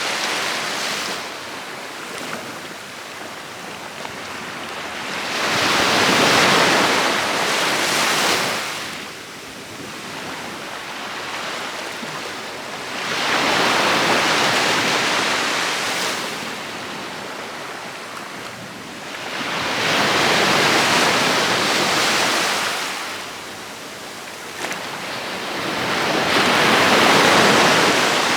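Sea waves breaking on a beach: four surges of rushing surf, about seven seconds apart, each swelling and then washing back.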